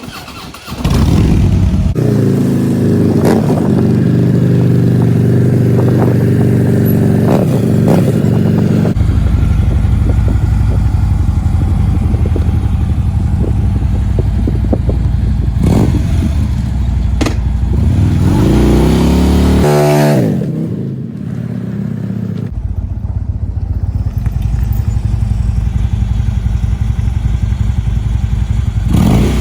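A large motorcycle engine starts about a second in and runs loudly and steadily. Near two-thirds of the way through, the revs swing up and down, then it settles back to steady running.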